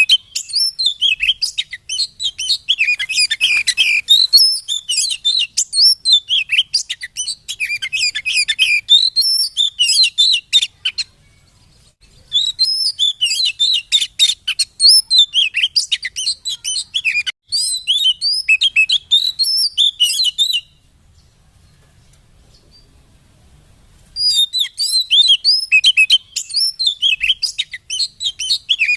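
Oriental magpie-robin (kacer) song: a fast, varied run of loud chirps and whistles. It breaks off for about a second near the middle and for several seconds later on, then starts again.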